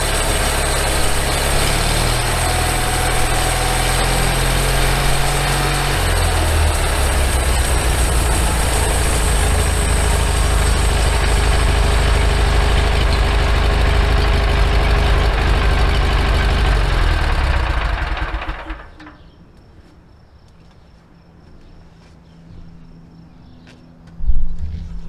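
Gasoline engine of a homemade sawmill running steadily through its homemade muffler. Its pitch shifts slightly about six seconds in, and it is shut off about three-quarters of the way through. A few loud knocks come near the end.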